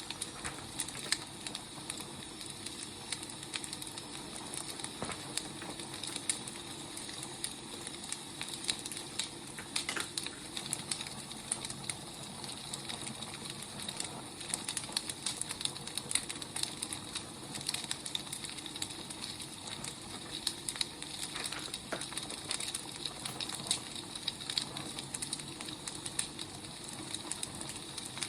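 Wood fire burning: a steady hiss with frequent small, irregular crackles and pops of burning firewood.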